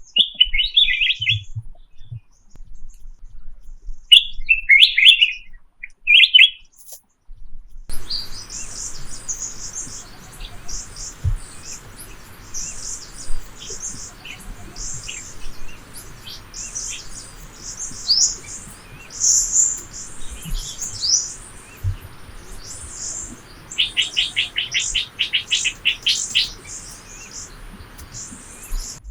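Wild birds chirping and calling: a few chirp phrases at first, then after about eight seconds many short high chirps over a steady faint hiss, with a quick run of repeated notes near the end.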